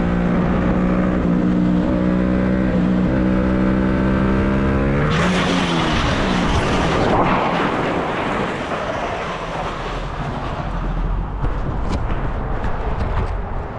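Motorcycle engine running at a steady pitch, then the revs drop about five seconds in as the rider loses control, followed by a loud harsh rush of noise for about two seconds as the bike goes down and slides. After that there is rougher background noise with a few scattered knocks near the end.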